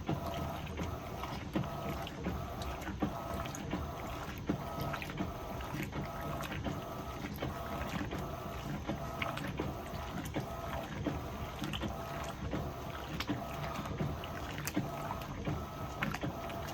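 Electrolux LPE16 washing machine running its heavy wash program with two queen duvets. Water sloshes as the load is churned over a steady motor hum, with scattered light knocks and clicks.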